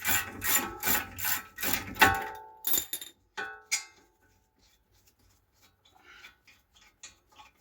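Hand ratchet wrench clicking in quick repeated strokes, about three a second, for the first two seconds, then a few separate metallic clicks and knocks.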